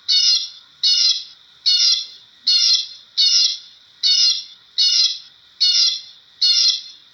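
Blackbird calling: a short, harsh call repeated evenly about every 0.8 seconds, nine times.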